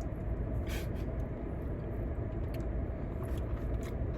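Steady low rumble of a running vehicle, with scattered small clicks and a brief hiss about a second in.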